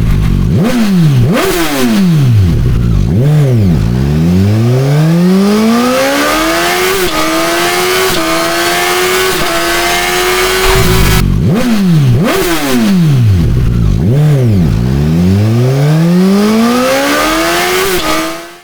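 Suzuki GSX-S1000 inline-four engine through a GRmoto aftermarket exhaust, revved hard: several quick blips that rise and fall back, then a long climb to high revs held for a few seconds. After a brief break near the middle, the same blips and long climb come again.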